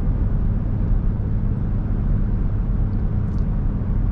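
Steady road and engine noise heard from inside the cab of a 2021 Ford F-150 Raptor driving on 37-inch tires: a continuous low drone of tyres and engine at cruising.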